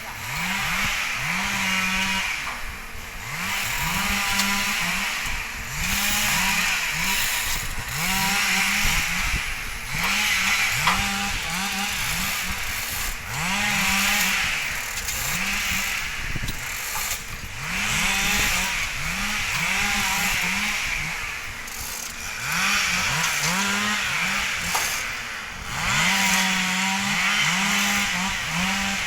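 Chainsaw repeatedly revving and cutting into acacia logs, its engine pitch sagging under load with each cut and picking up again between cuts.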